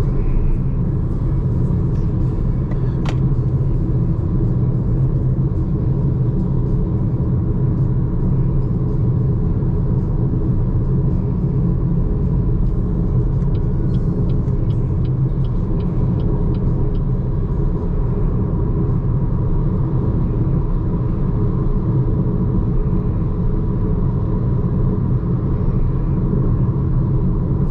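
Steady low rumble of a BYD Seagull electric hatchback cruising on an expressway: tyre and road noise with no engine note. There is a faint run of ticks about halfway through.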